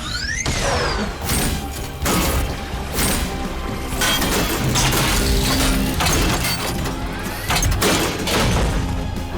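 Cartoon soundtrack: background music under repeated crashing, shattering sound effects, with rising swooshes near the start and again about seven and a half seconds in.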